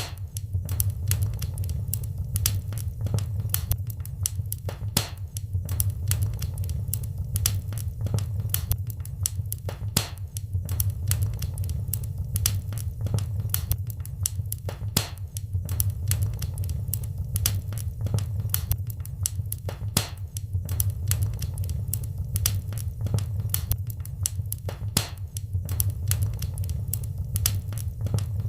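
Wood fire crackling in a fireplace: many irregular pops and snaps over a steady low rumble.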